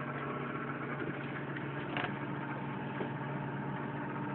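A steady, even machine hum, like an idling engine or a running motor, with a faint tick about two seconds in.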